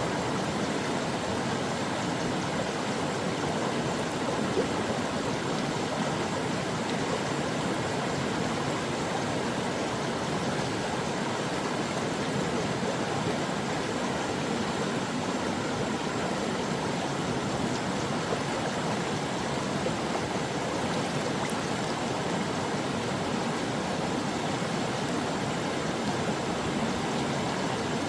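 Stream water flowing and babbling in a steady rush, with no let-up or change.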